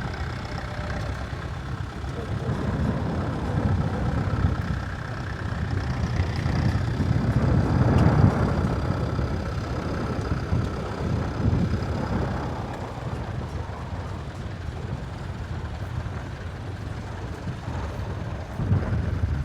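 Tractor engine running, loudest about eight seconds in as the rumble swells and then settles back.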